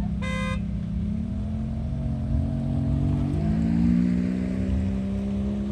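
Car engine running and picking up revs, its pitch rising in two steps, about a second in and again past the three-second mark. A short pitched beep, like a horn toot, sounds just after the start.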